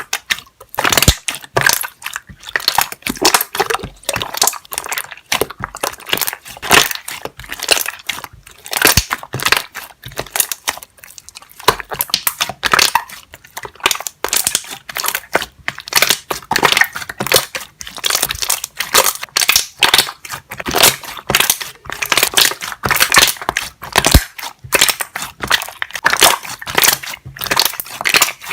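Many small air bubbles popping in dense crackling runs, coming in quick waves of clicks with a brief thinner spell about eleven seconds in.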